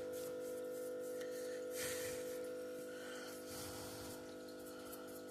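A steady hum made of several fixed tones, with soft handling and brushing noises over it.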